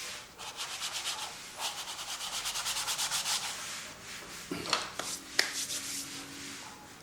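A paint-loaded tool scrubs across canvas in quick back-and-forth strokes, several a second, with a dry, hissing rub. Two sharp taps follow midway.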